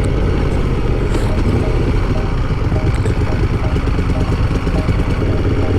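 Moto Guzzi Griso 1200's transverse V-twin engine running steadily at low revs while riding in traffic.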